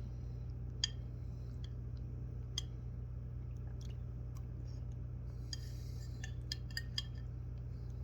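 Scattered sharp clicks and crunches of parrots biting and chewing food: a few single ones, then a quick cluster with a short crunch about five to seven seconds in. A steady low hum underlies it all.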